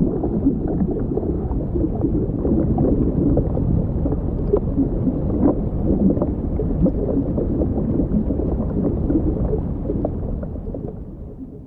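Muffled underwater rushing with dense, irregular bubbling, as heard under water during a swim; it fades out near the end.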